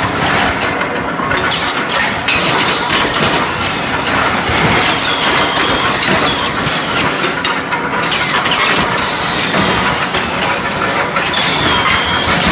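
Induction heating furnace with its automatic round-bar feeder running: a loud, steady machine noise with a wavering high whine and scattered clanks of steel bars.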